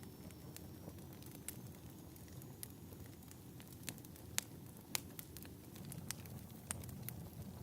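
Wood fire crackling in a fireplace: a steady low rumble of burning with scattered sharp pops, the two loudest about four and a half and five seconds in.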